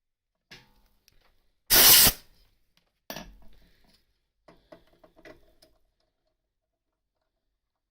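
A short blast of compressed air from an air blow gun, a loud hiss of under half a second about two seconds in, with light metallic scrapes and clinks before and after it.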